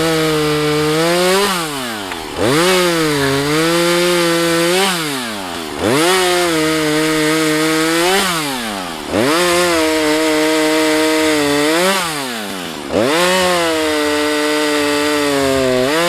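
Husqvarna 435 two-stroke chainsaw repeatedly throttled up and held at high revs for two to three seconds, then dropping back toward idle between, about every three and a half seconds.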